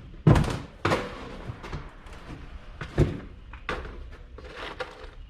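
Several sharp knocks and clunks, the loudest about a third of a second in and another about three seconds in, from tools and parts being handled while hose clamps are fitted during a radiator replacement.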